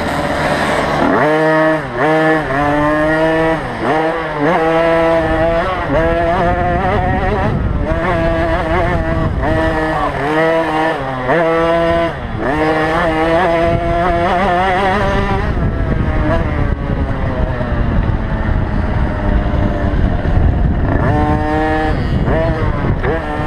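Small two-stroke 50cc motocross bike engines racing, their pitch rising and falling again and again as the throttle is opened and shut. About two-thirds of the way through they give way to a steadier blend of engines, and near the end they rev up and down again.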